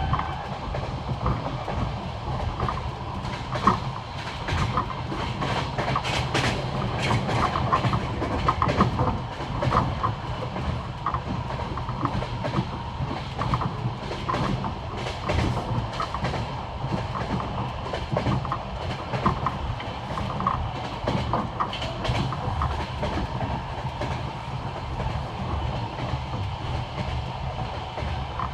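Passenger train running on jointed rail, heard from aboard: the wheels knock over the rail joints in repeated clickety-clack groups over a steady low rumble.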